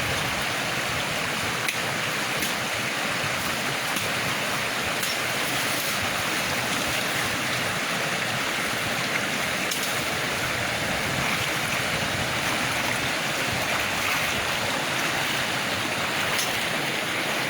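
River water flowing steadily, a constant rush.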